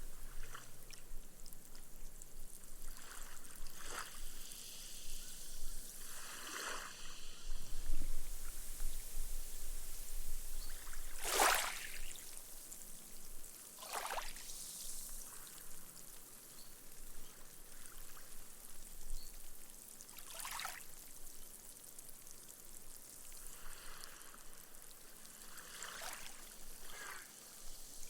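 Gentle ripples washing up a sandy beach and soaking into the sand, the foam fizzing away, with a short hissing surge every few seconds over a soft, steady wash.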